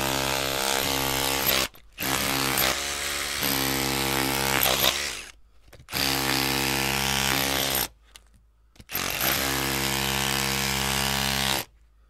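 Electric drill running in bursts of two to three seconds with short stops between them. It stops and restarts three times, with a brief change in pitch in the second run, and cuts off just before the end.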